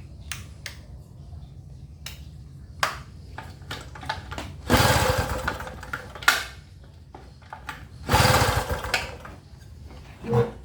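Gasoline inverter generator being pull-started on its recoil starter: two pulls, each about a second of the engine cranking with a fast pulsing chug, with clicks and knocks between. The engine does not keep running after either pull.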